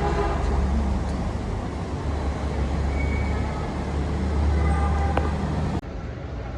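Lagos Blue Line electric train running, a loud, steady low rumble that drops off suddenly near the end.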